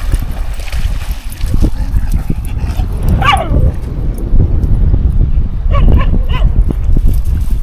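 Dog barking over wind buffeting the microphone: one drawn-out bark falling in pitch about three seconds in, then three quick barks a little before six seconds.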